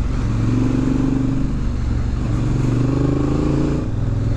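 Honda Africa Twin's 998 cc parallel-twin engine accelerating under load, its pitch rising steadily, dropping back twice as it shifts up a gear.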